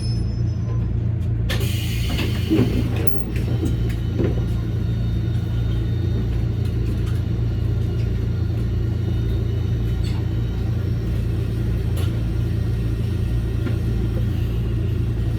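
Toyama Chiho Railway electric train rumbling steadily. About a second and a half in there is a burst of hiss with brief squeals, then the steady rumble carries on with a few faint clicks.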